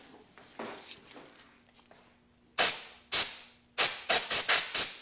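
Hand wire brush scrubbing grime off a metal fuel-line fitting in short scratchy strokes: a few single strokes, then a quick run of about six near the end.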